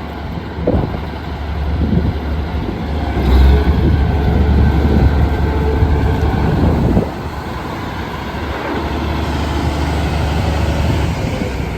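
Case IH 9170 four-wheel-drive tractor's diesel engine running with a deep, steady drone, working harder for a few seconds and easing off about seven seconds in.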